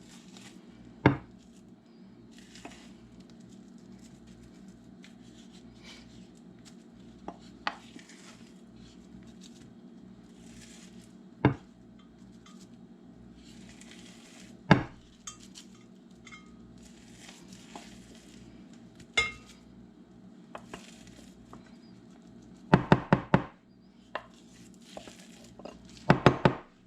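Utensil and baking dish as stuffing mix is spread over a casserole: soft scraping and rustling of the crumbs, broken by occasional sharp clinks against the dish, over a low steady hum. Near the end come two quick runs of knocks, like a spoon tapped on the dish.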